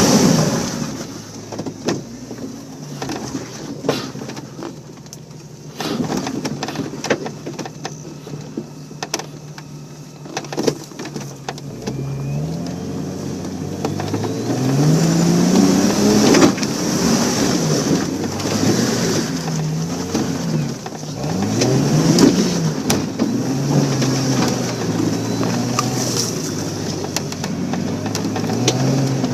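Off-road 4x4's engine under load as it climbs a trail: low and steady at first, then from about twelve seconds in revving up and falling back again and again in short bursts. Scattered knocks and clicks throughout.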